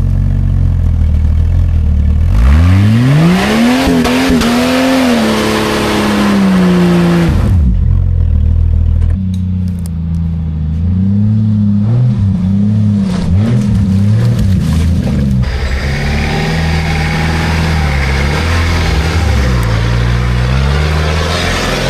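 Old Jeep Cherokee's engine revving hard under load on an off-road track. Its pitch climbs steeply a couple of seconds in, holds high, then drops away, and after that it rises and falls again and again. Over the last few seconds a broad rushing hiss joins the engine.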